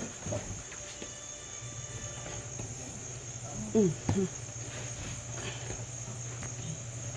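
Crickets chirping in a steady high-pitched trill, over a low hum. A brief falling vocal sound comes about four seconds in.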